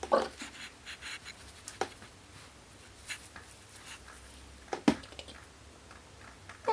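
Kittens playing: scattered scratches and light taps of paws and claws batting at toys, with one sharp knock about five seconds in.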